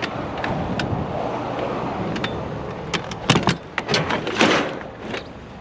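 Curbside scrap being handled: a few sharp knocks and rattles in the second half, over a steady background rumble.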